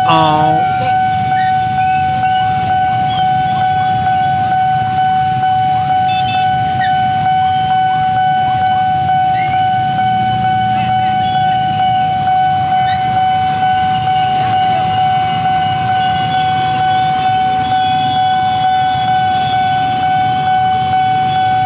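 Railway level-crossing warning alarm sounding continuously as one steady tone with a regular pulse. Under it runs a haze of traffic, with short horn toots.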